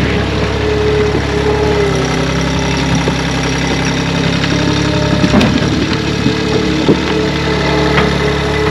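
Two-stroke chainsaw engine running with a steady, loud note that wavers a little in pitch, with a few short knocks in the middle.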